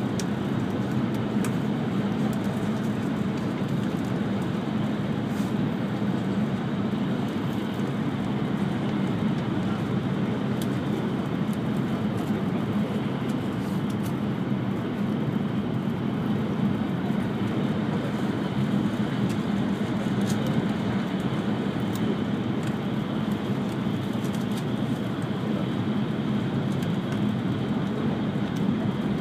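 Cabin running noise of an E5 series Shinkansen at high speed, passing a station without stopping: a steady low hum under an even rushing noise that does not change.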